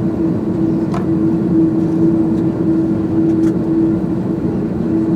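Cabin noise inside an Airbus A330-200 taxiing after landing: a steady drone with a constant hum, and a faint click about a second in.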